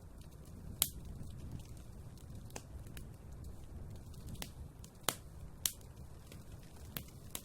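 Wood fire burning in a fireplace: a steady low rumble of flames with irregular sharp crackles and pops, about eight in a few seconds.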